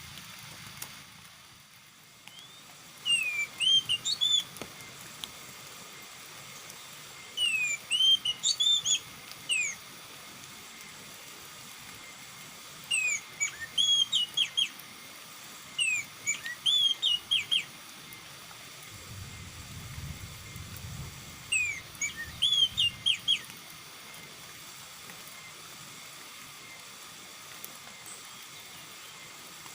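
Oriental magpie-robin (kacer) singing in short phrases of sliding whistled notes, six phrases a few seconds apart.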